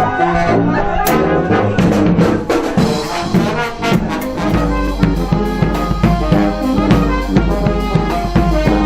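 Brass band playing jazzy music, with trombones and trumpets over a steady drum beat; a low bass line comes in about halfway through.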